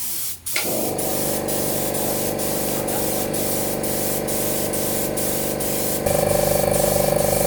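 Compressed-air spray hissing steadily, with a motor hum starting about half a second in and getting louder near the end.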